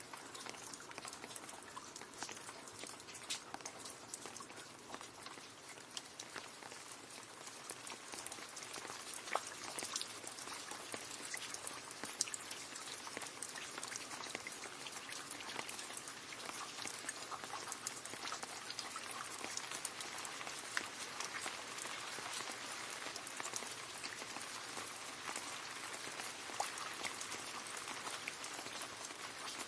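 Rain falling into a puddle: a dense, steady patter of drops with many small splashes and a few louder drips standing out.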